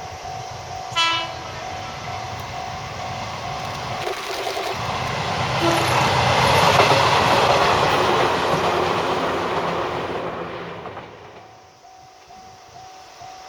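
Izuhakone Railway 1300 series electric train (ex-Seibu 101 series) giving a short horn blast about a second in, then passing. Its running noise swells to a peak mid-way and fades away near the end.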